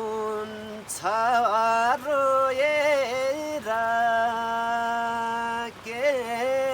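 A solo voice singing a slow Nepali folk song: long drawn-out notes with wavering, sliding ornaments and no clear words, one note held steady for about two seconds in the middle.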